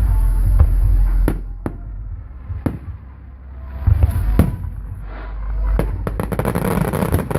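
Aerial fireworks going off: deep booming shell bursts with several sharp reports, and a rapid crackling near the end.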